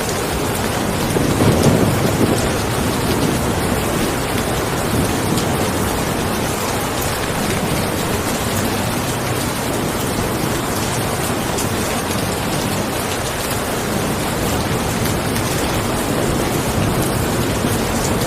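Steady heavy rain, with a low rumble of thunder swelling and fading about one to three seconds in.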